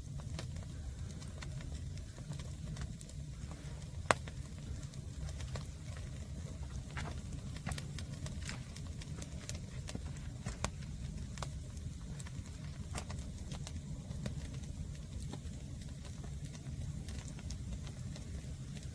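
Green firewood burning, crackling with scattered sharp pops over a steady low rumble, one pop much louder than the rest about four seconds in.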